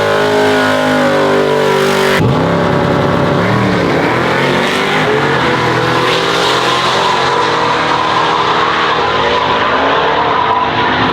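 Drag-racing trucks' engines running at high revs, with pitch climbing and falling as they rev. There is an abrupt change in the sound about two seconds in, and the engine note carries on strongly afterwards.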